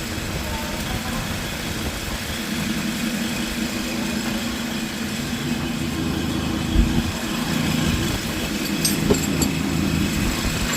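Steady mechanical hum, like an engine or motor running, with a single thump about seven seconds in and a few light clicks a couple of seconds later.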